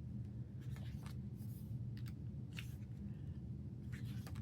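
Pages of a paper album photobook being turned and handled: a scatter of short paper rustles and light clicks, over a steady low hum.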